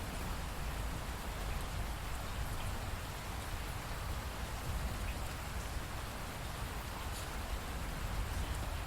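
Steady rain falling, an even hiss over a low rumble with faint scattered drop ticks.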